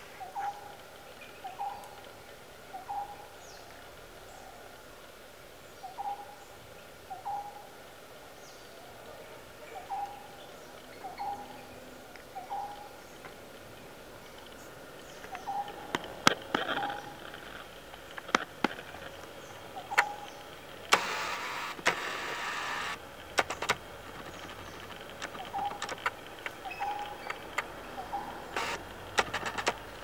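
A bird repeating short, mid-pitched call notes, mostly in pairs, every second or two. In the second half, sharp snapping clicks come in and a burst of rustling lasts about two seconds.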